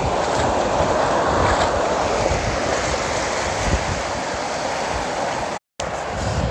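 Atlantic Ocean surf washing in at the shoreline: a steady rush of breaking waves that swells during the first couple of seconds. The sound cuts out completely for a moment near the end.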